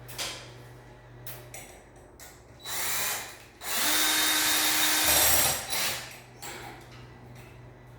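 Power drill running in two bursts: a short one about two and a half seconds in, then a longer, louder one of about two seconds.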